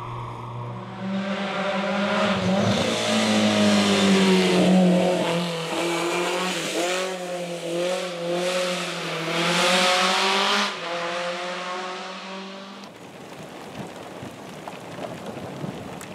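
Rally car engine at high revs going through a bend, its pitch climbing and dropping several times as the driver shifts and lifts off. It passes and fades away about thirteen seconds in.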